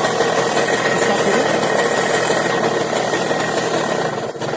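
Small two-stroke mini motorbike engine idling steadily, with a brief dip in level about four seconds in.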